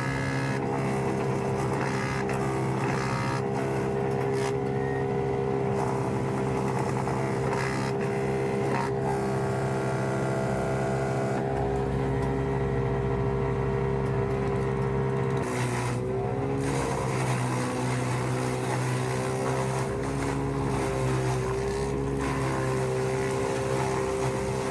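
Wood chipper's engine running steadily, its pitch dipping and recovering briefly about two-thirds of the way through.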